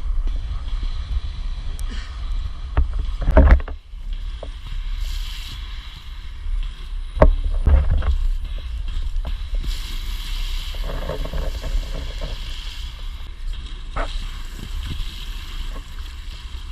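Inline skate wheels rolling over wet pavement with a steady wet hiss, and wind rumbling on the microphone. Two loud knocks come about three and a half and seven and a half seconds in.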